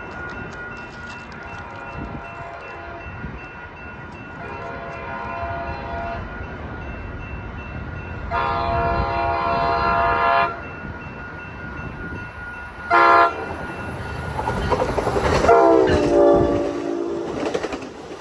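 Amtrak Capitol Corridor passenger train's horn sounding two long blasts, a short one and a final long one, the grade-crossing signal, over the rising rumble and clatter of the approaching train. The last blast drops in pitch as the train passes at speed.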